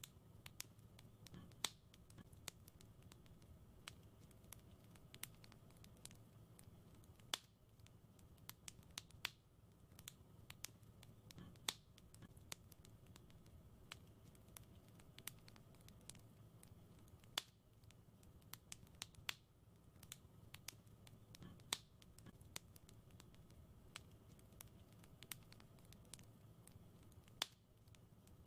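Fire crackling in a fireplace: irregular sharp pops and snaps, a handful of them louder, over a faint low rumble of the burning.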